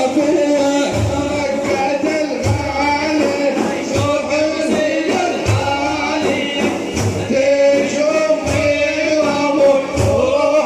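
A man singing an Iraqi devotional manqaba in praise of the Prophet, holding and ornamenting a long melismatic line over a slow, regular frame-drum beat.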